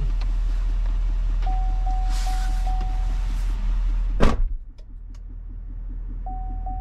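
Steady low rumble of a moving diesel pickup heard from inside the cab, with a short tone sounding four times in an even rhythm. About four seconds in there is a loud sharp knock, after which the cab sound is quieter and duller.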